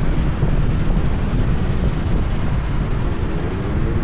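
Wind buffeting the microphone over the steady running and road noise of a Honda PCX 160 scooter on the move. A faint rising engine whine begins about three seconds in.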